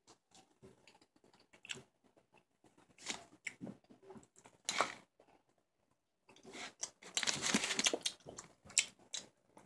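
Chewing and biting solid chocolate close to the microphone: scattered wet mouth clicks and small crunches. A few louder bursts of noise, the longest lasting about two seconds near the end.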